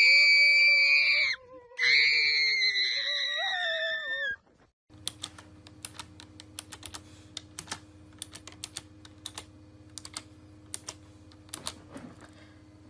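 Two long, high-pitched screams, the second starting just under two seconds in, then, from about five seconds in, quick irregular clicking of computer keyboard typing over a faint steady hum.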